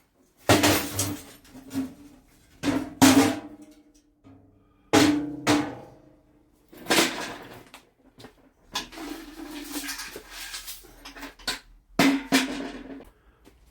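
A metal catch tray is knocked and emptied. There are a series of clanging knocks, each leaving the tray ringing, and a stretch of loose bits rattling in the middle.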